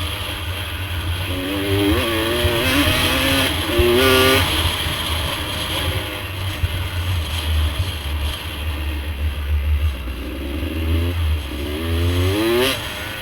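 Off-road motorcycle engine running under a steady low rumble. It revs up and down in two spells, one about a second and a half in and another near the end.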